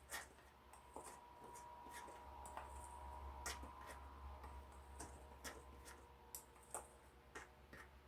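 Faint, irregular light clicks and taps of a measuring spoon against a bowl as a dry breading mix is measured and stirred, over a faint steady hum.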